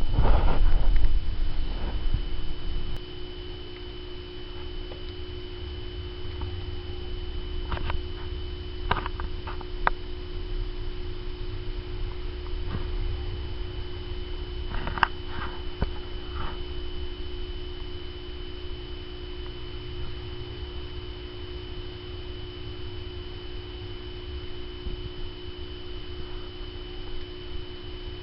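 A steady electrical hum with a thin high whine runs over a low rumble, which is loudest for the first two or three seconds. A few faint clicks and rustles come near the middle.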